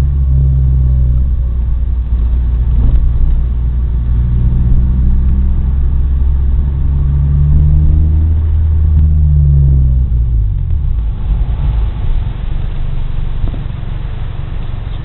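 Ford Probe under way, its engine running with a deep drone whose pitch shifts and falls away about ten seconds in, leaving a quieter, rougher rumble of road noise.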